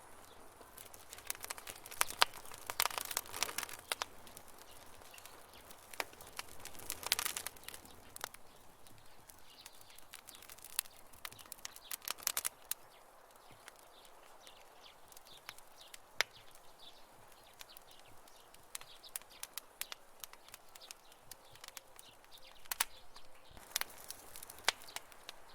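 Wood campfire burning: crackling and popping with sharp snaps that come in bunches, about two, seven, twelve and twenty-four seconds in, over a faint steady hiss.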